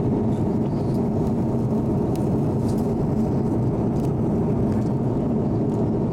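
Steady low rumble of a passenger airplane's cabin in flight, the engine and airflow noise heard from a window seat.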